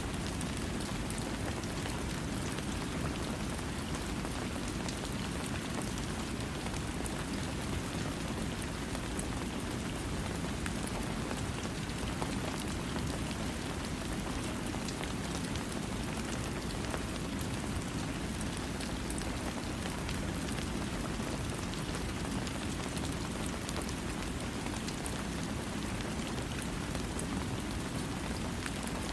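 Steady rain falling on a surface, an even hiss with a low rumble and fine scattered drop ticks, with no thunder.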